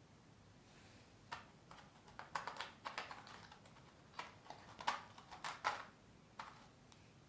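A dozen or so faint, irregular light clicks and taps, bunched between about one and six and a half seconds in, like small hard objects being handled.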